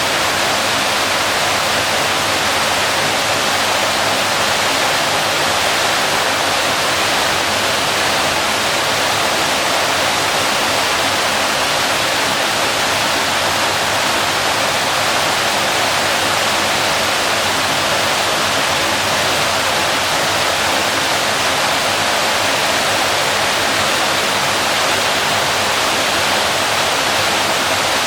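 Waterfall: a steady, unbroken rush of falling water, loud and even, with most of its energy in the middle and upper range.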